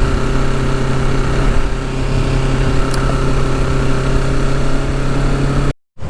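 Kawasaki Ninja 650's parallel-twin engine running at a steady cruising speed, with wind noise over it. The sound cuts out completely for a moment near the end.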